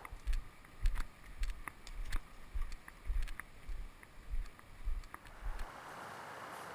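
A hiker's footsteps: low thumps about two a second, with faint clicks, that stop near the end and leave a steady background hiss.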